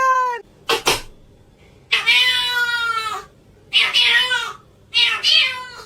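Domestic cat meowing repeatedly: a long drawn-out meow, then two shorter ones. Two sharp knocks come about a second in.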